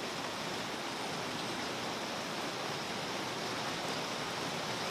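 Steady rain falling on a pond's surface and the reeds around it, an even hiss with no single drops standing out.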